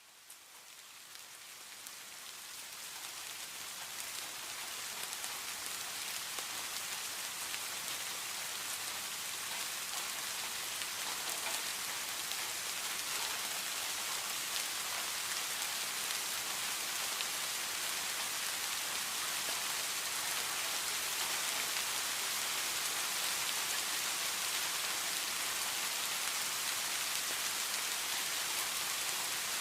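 Steady rain falling on a surface, a dense even hiss of many drops with no thunder. It fades in over the first several seconds, then holds steady.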